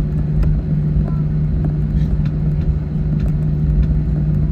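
Cabin noise of an Airbus A321 taxiing after landing: a steady engine hum over a low rumble, with faint scattered clicks.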